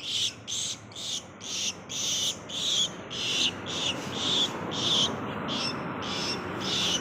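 A swiftlet calling in a steady series of short, high chirps, about two to three a second, over a faint low hum.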